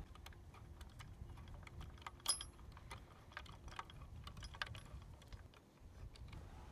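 Irregular light clicks and taps of hands working on bike parts and tools, with one sharper metallic click about two seconds in.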